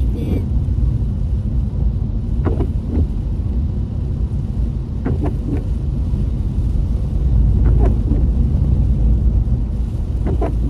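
Steady low rumble of a car heard from inside the cabin. Short squeaks or creaks cut through it about every two and a half seconds.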